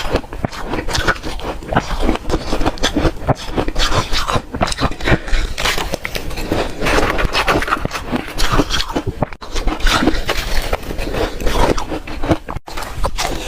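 A person chewing hard refrozen ice close to the microphone: a steady run of loud, sharp crunches and cracks as the ice breaks between the teeth.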